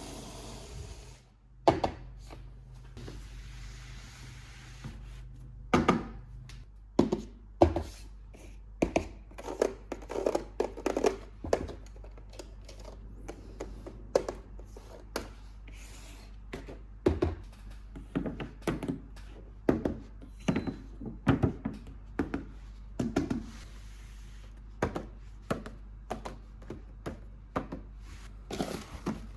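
Toy packaging handled up close: irregular taps, knocks and rubbing of cardboard and plastic, with a few louder thunks, over a steady low hum.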